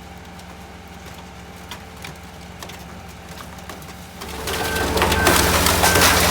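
Car crusher's machinery humming steadily with a few faint clicks, then about four seconds in the car body starts being crushed: a loud, dense crackling of snapping metal and breaking glass.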